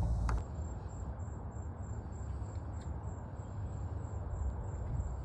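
An insect chirping in a high, steady, evenly pulsing rhythm over a steady low outdoor rumble, with a single click just after the start.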